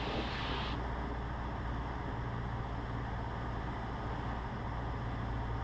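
Cessna 150's four-cylinder Continental O-200 engine and propeller droning steadily, heard inside the cockpit during a flaps-down approach. A brighter hiss on top drops away just under a second in.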